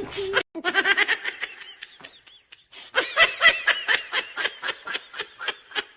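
A person laughing in rapid short bursts, trailing off about two seconds in and breaking into stronger laughter again about a second later.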